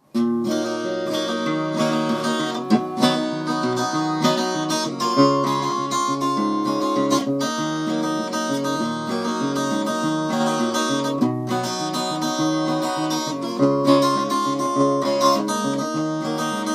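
Acoustic guitar strummed in a steady rhythm, playing the instrumental introduction to a song.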